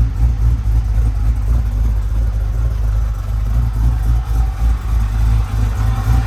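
LS 408 stroker V8 in a 1988 box Chevy running at idle on its first start-up, with oil pressure up, its deep exhaust note pulsing steadily.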